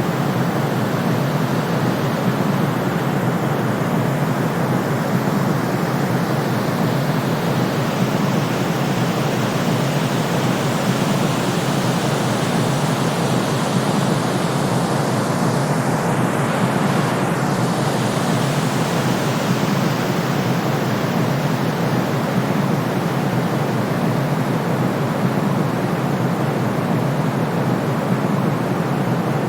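Steady white noise for sleep: an even, unbroken hiss weighted toward the lower pitches, with the upper hiss swelling slightly around the middle.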